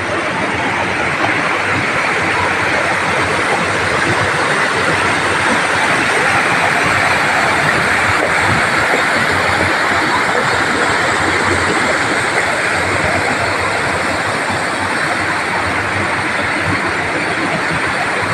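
Large waterfall pouring, a steady loud rush of falling water.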